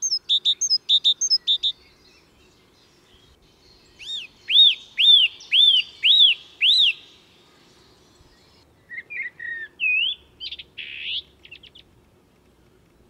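A songbird singing in three phrases. First comes a quick run of short high notes, then about five loud, clear, arched notes roughly half a second apart, and near the end a varied twittering phrase.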